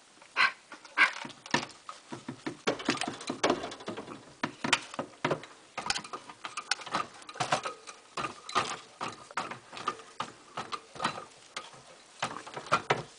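Caique parrot biting and tearing at a broom's bristles: a rapid, irregular crackle of small snaps and rustles.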